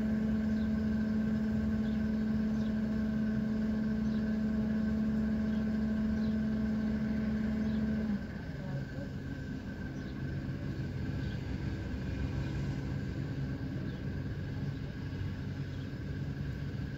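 Steady hum of an idling car engine. About eight seconds in the higher droning tone cuts off and a lower, quieter hum carries on.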